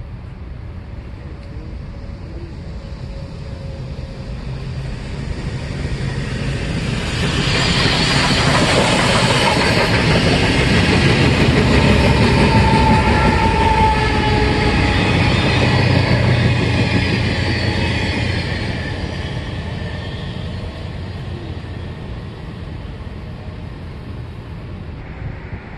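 Union Pacific Big Boy #4014 steam locomotive and its train drifting past, with a trailing diesel locomotive: a rumble and clatter of wheels on rail that builds, is loudest for about ten seconds in the middle, and fades away, with a brief high wheel squeal about halfway through.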